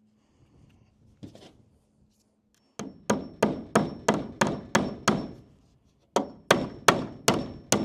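Hammer driving nails into wood: a run of about eight steady blows, a short pause, then five more, each ringing briefly.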